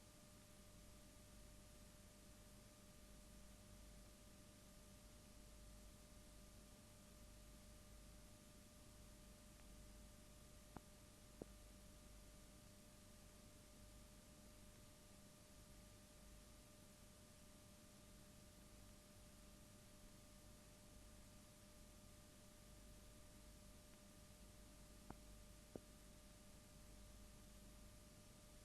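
Near silence: a faint steady hum over hiss, with two pairs of faint clicks, one about a third of the way in and one near the end.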